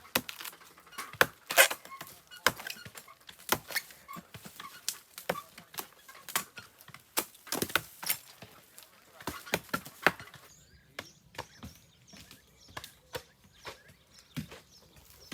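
Irregular sharp knocks and cracks of cork bark being worked during the harvest, about one or two a second. The knocks grow fainter after about ten seconds.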